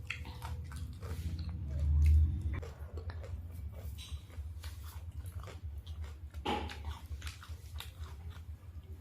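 Close-miked biting and chewing of crispy fried chicken: crunching and mouth clicks. About two seconds in there is a loud low thump.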